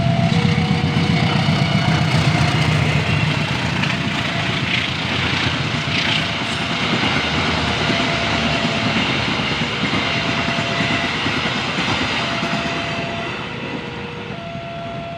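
Train passing close by at speed: a loud, steady rush and rumble of wheels on the rails that eases slightly toward the end and cuts off suddenly.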